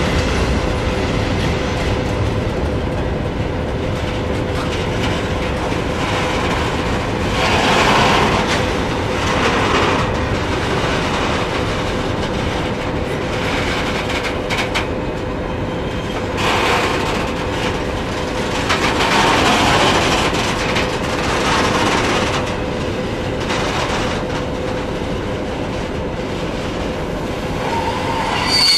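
Long freight train of sliding-wall wagons rolling past at close range, a continuous rail rumble with the wheelsets clattering along the track and swelling louder for a second or two several times as groups of wagons go by.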